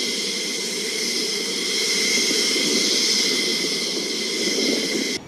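F/A-18 fighter jet engines running steadily: a loud rush with several high, steady whining tones. The sound cuts off abruptly about five seconds in.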